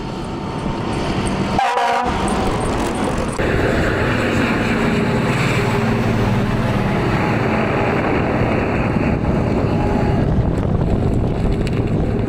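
A train running with a steady loud rumble and rushing noise. A short pitched tone sounds just under two seconds in, and the noise grows louder about three seconds in.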